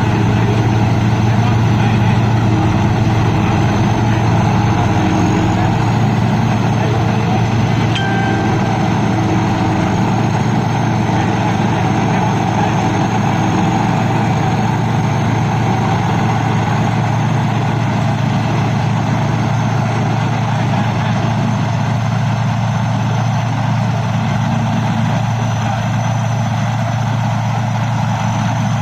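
Thai Seng Yont 'Chao Phayu 4.0' rice combine harvester's engine running steadily, with a thin, steady high whine over it.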